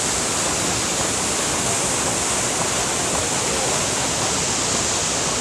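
Waterfall's water crashing down in a steady, unbroken rush.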